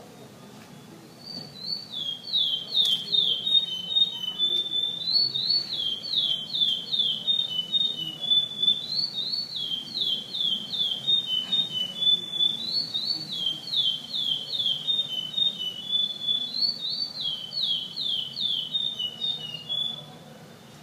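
Male curió (chestnut-bellied seed finch) singing its trained classic 'gravatá' song. One phrase, a quick run of falling notes ending in clear whistles, is repeated five times over, starting about a second in and stopping just before the end.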